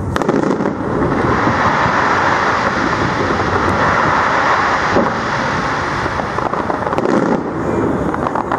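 A fireworks display crackling in a dense, steady wash of small pops as masses of crackling stars burst along the bridge arch, with a couple of sharper bangs about five and seven seconds in.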